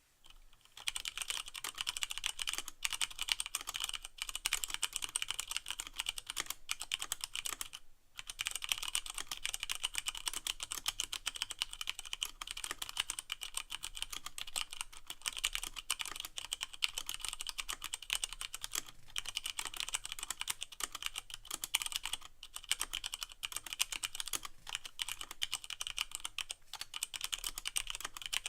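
Continuous fast typing on a Leopold FC660M mechanical keyboard with Cherry MX Brown switches and no O-rings, a dense run of sharp key clicks and clacks as keys bottom out. It starts just under a second in, with a brief pause at about eight seconds.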